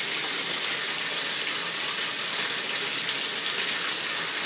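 Water running steadily from a tap into a bathtub, a continuous even hiss.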